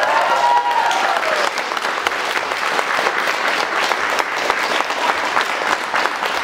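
Audience applauding, with a few cheering voices at the start that soon die away, leaving steady clapping.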